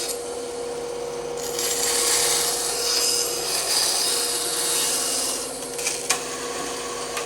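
Bandsaw running with its blade cutting through wood: a steady motor hum under the rasp of the cut, which grows louder from about a second and a half in and eases off near the end, with a couple of sharp clicks just before it eases.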